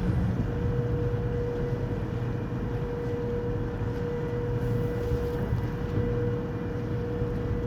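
Ferry's engines running steadily as it comes into port: a continuous low drone with a thin, steady whine held on one note.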